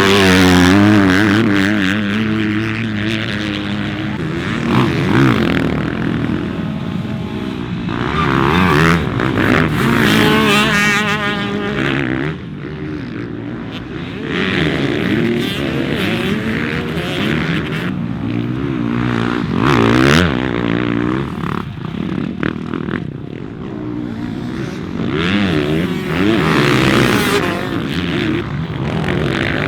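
Motocross bikes racing, their engines revving up and down repeatedly as they accelerate and back off around the track.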